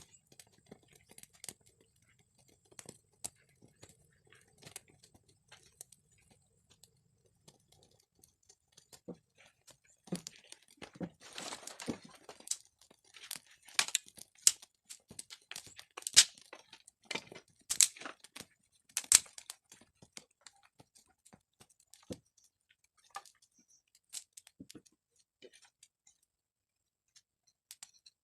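Irregular crinkling and rustling with scattered sharp clicks and taps, busiest in the middle, from objects being handled.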